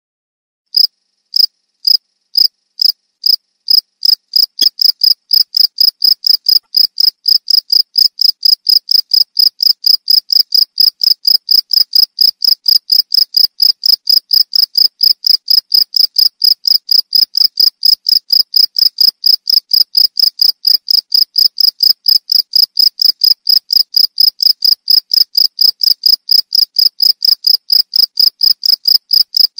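Cricket chirping: a run of short, high-pitched chirps, spaced out at first and then coming quickly and evenly, several a second.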